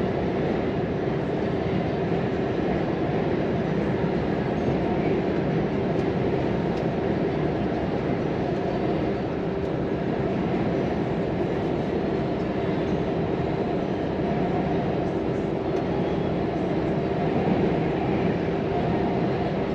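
Volvo FM 420 hp truck heard from inside the cab while driving: a steady engine and road drone with a constant tone, no change in speed or gear.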